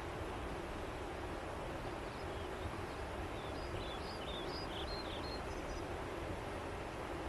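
Steady rushing of flowing river water, with a small bird chirping a quick run of short high notes from about two seconds in until nearly six seconds.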